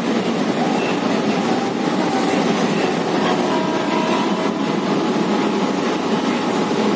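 Electric suburban local train running along the track, heard from inside the coach at an open window: a steady rumble of wheels on rail mixed with rushing air, with a faint whine briefly near the middle.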